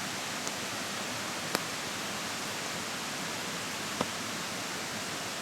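Steady rushing of a mountain stream, with three short sharp cracks: one about half a second in, one about a second and a half in, and one about four seconds in.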